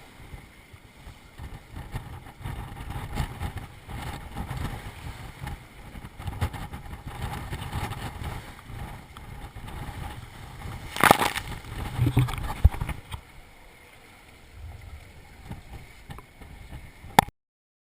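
Gale-force wind buffeting the microphone and water rushing along the hull of a small sailboat under way, with a loud sudden burst of noise about eleven seconds in and another a second later. The sound cuts off abruptly near the end.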